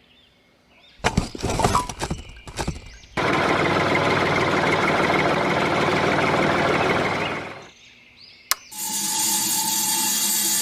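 A few knocks and clicks of handling, then a small electric motor runs steadily for about four seconds and stops. A sharp click follows, then another steady sound begins near the end.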